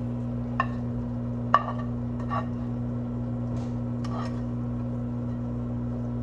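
A steady low electrical hum, with a few light clicks and clinks, the sharpest about a second and a half in.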